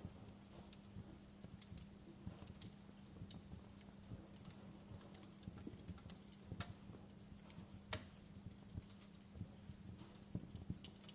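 Wood fire crackling: irregular sharp pops and snaps, one louder pop about eight seconds in, over a faint steady low hum.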